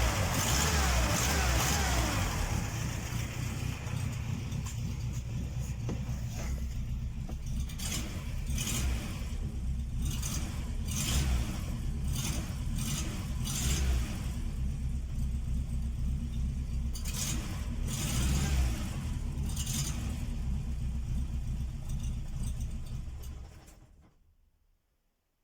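ZAZ-968A Zaporozhets' air-cooled MeMZ-968 V4 engine running, brighter and busier for the first couple of seconds, then settling to a steady run with several brief louder bursts. It is switched off near the end and the sound dies away.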